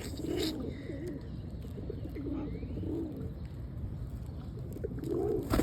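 Pigeons cooing close by, a series of low repeated coos.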